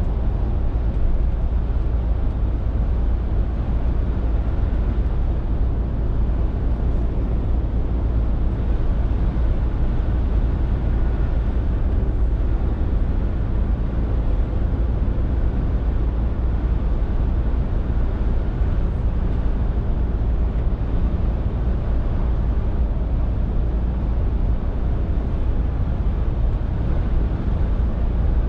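Scania R450 lorry on the move: its inline-six diesel engine gives a steady low drone under continuous road noise, with no change in engine speed.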